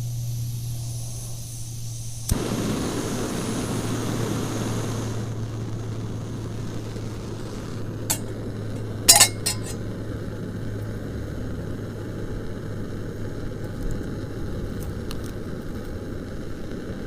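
Steady hiss of rain with a low hum under it. A sharp click comes about two seconds in, and a few sharp clinks of cookware come near the middle.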